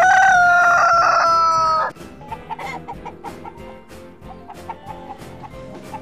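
A chicken's long, loud crowing call, held on one slightly falling note for about two seconds and then cutting off. Quieter clucking and background music follow.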